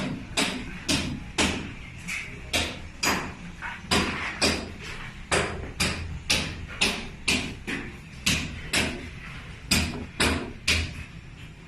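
A run of sharp knocks, about two a second, with a brief break near the end.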